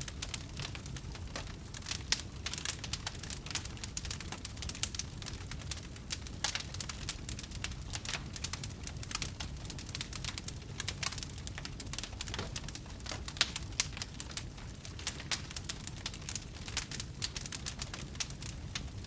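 Wood campfire crackling, with many small irregular pops and snaps over a steady low rumble of the burning fire.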